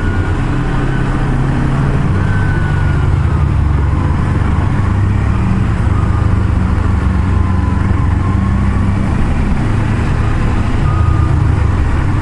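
A car being driven, heard as a steady low drone of engine and road noise, with a faint whine that drifts slowly in pitch.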